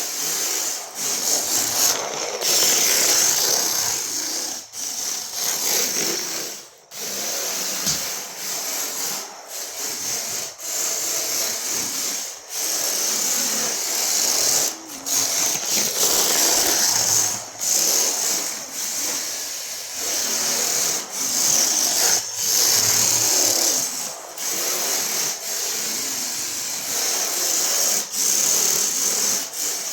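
Repeated rasping, scraping strokes, each lasting about a second or two with brief pauses between them.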